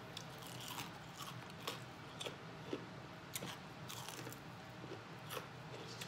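Close-up biting and chewing of a Popeyes fried chicken wing, the crispy breading crunching in short, irregular crunches about one or two a second.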